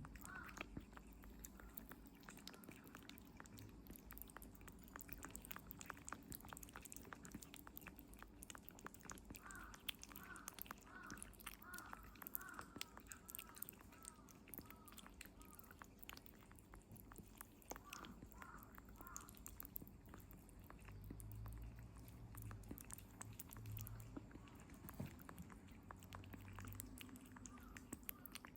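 Kitten eating soft weaning food, with rapid faint wet chewing and smacking clicks. Through the middle it gives a string of short, high, rising-and-falling squeaks about twice a second, the little murmurs a kitten makes while it eats.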